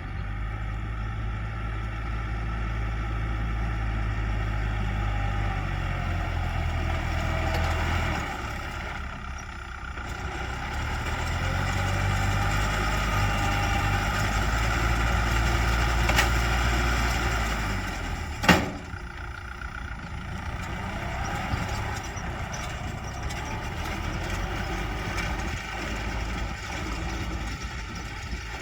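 Kubota L4508 diesel tractor running with a Star 850 straw roll baler working behind it. The engine note rises and falls with the load, and there is one sharp loud clack about two-thirds of the way through.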